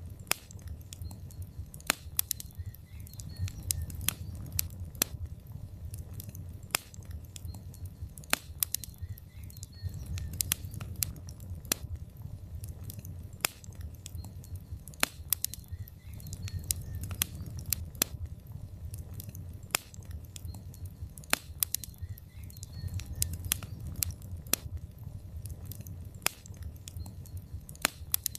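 Wood fire in a fireplace: logs burning with a low steady rumble of flame and frequent irregular crackles and sharp pops.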